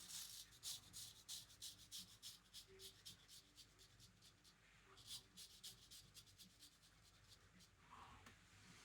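Razor blade scraping through lathered stubble in short strokes, about three a second, pausing for a moment in the middle before a second run of strokes.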